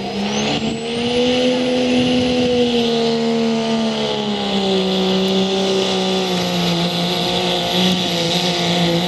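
Diesel pickup truck engine held at high revs under heavy load while pulling a weight sled. A high turbocharger whistle climbs in pitch over the first two seconds, then holds. The engine note sags a little about four seconds in, then runs steady.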